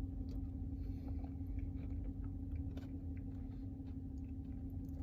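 A person quietly chewing a mouthful of McFlurry soft-serve with small crunchy bits, faint little clicks scattered through, over a steady low hum.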